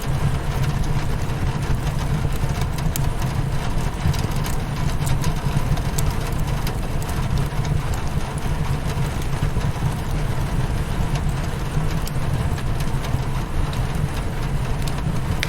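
Steady rain beating on a window, with a deep, even rumble underneath, and scattered sharp crackles from a wood fire in a fireplace.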